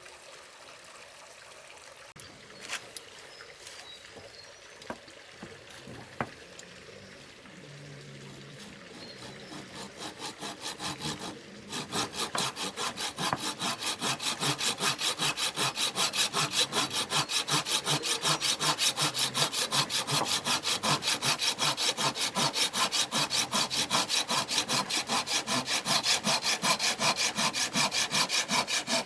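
Hand saw cutting through wood: a few light knocks at first, then the sawing starts softly about a third of the way in and settles into quick, even back-and-forth strokes.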